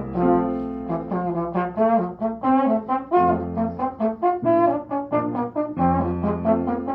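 Brass instruments playing music together: a quick run of short notes over held lower notes.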